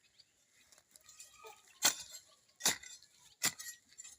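Three sharp knocks, evenly spaced a little under a second apart, with faint scattered ticks and scraping between them.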